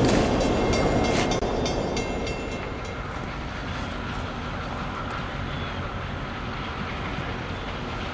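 Train rolling along the rail line, its wheels clicking over the rails with a thin wheel squeal, fading over the first few seconds into a steadier, quieter rumble.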